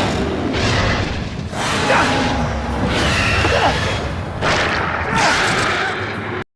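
Film soundtrack of an action scene: repeated booms and whooshes over dramatic score music, with a few brief gliding cries, cutting off abruptly to silence just before the end.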